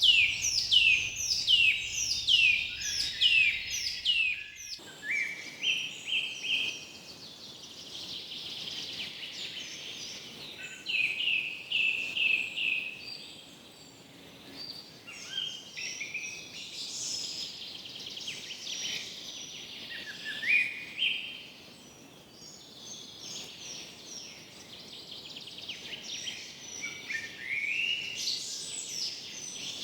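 Several forest birds singing at once over a faint steady hiss. A rapid series of falling whistled notes opens, followed by overlapping chirps and short stepped calls.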